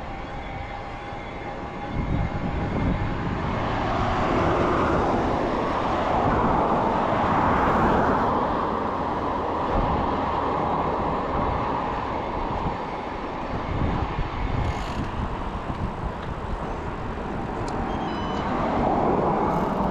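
Road noise while riding a bicycle on a road: wind rushing over the microphone with motor traffic going by, swelling louder for several seconds about four seconds in and again near the end.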